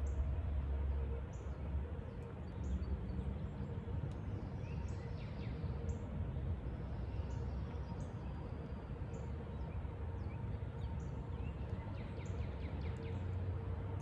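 Woodland ambience: small birds calling, with short high chirps about once a second and a few falling calls, over a steady low rumble and a faint steady hum.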